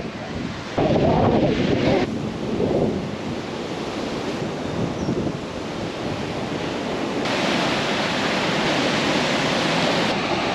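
Ocean surf washing onto a beach, a steady rush that swells a few times early and grows fuller about seven seconds in.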